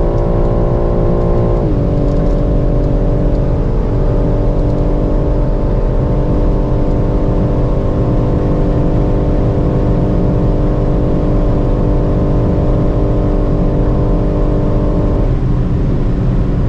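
BMW M3 Competition's S58 3.0-litre twin-turbo straight-six pulling hard at around 280–290 km/h, heard inside the cabin over heavy wind and road noise. Its pitch drops with an upshift about two seconds in, then holds steady. The engine note falls away near the end.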